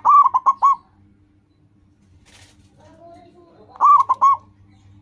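Zebra dove (perkutut) cooing in its quick, rolling song. There is a run of about five notes at the start, then a pause, then a fainter rising coo leading into another run of three or four notes near the end.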